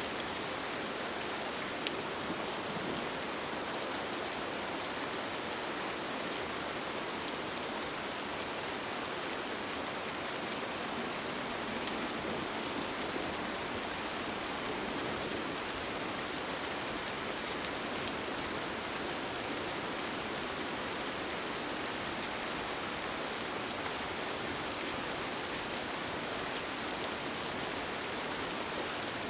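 Steady rain heard from inside a tent, an even hiss with scattered faint drop ticks.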